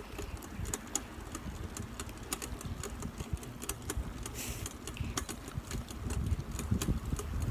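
Bicycle being ridden: irregular clicking and rattling over a steady low rumble.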